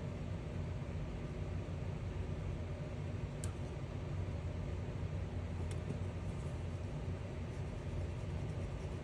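Steady low rumbling background noise with a couple of faint clicks.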